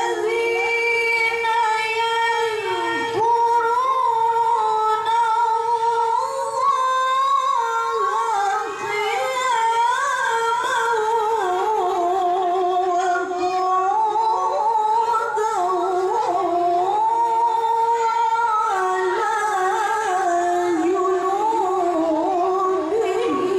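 A woman reciting the Quran in a high, melodious voice, holding long, ornamented notes that waver and slide between pitches, with only short breaks for breath.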